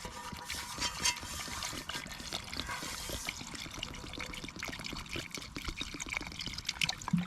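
Campfire burning with a dense, irregular crackle of small pops and snaps over a steady hiss.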